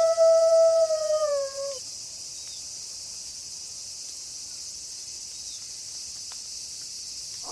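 A wolf howl held on one steady pitch, which drops and dies away about two seconds in. Behind it is a steady high chirring of night insects such as crickets.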